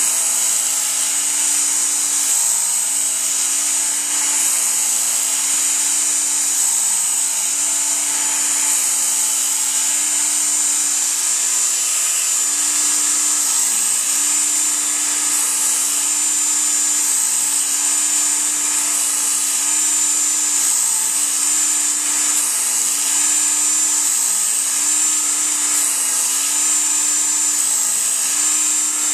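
Work Sharp electric belt knife sharpener running steadily with a 220-grit belt while a knife blade is drawn through its guide in repeated passes. A motor hum sits under a high whine, and the pitch shifts slightly every couple of seconds.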